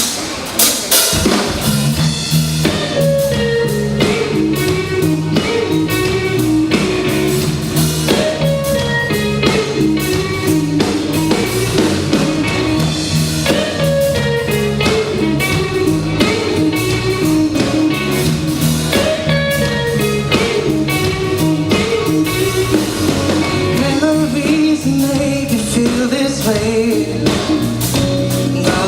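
A pop-rock band playing live: the instrumental opening of a song, with guitar, bass and drum kit, the sustained bass notes coming in about a second in.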